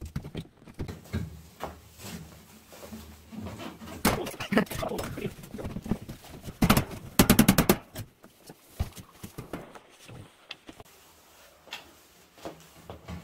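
Scattered knocks and handling clatter, with a quick run of about eight sharp clicks or taps about seven seconds in, the loudest sound.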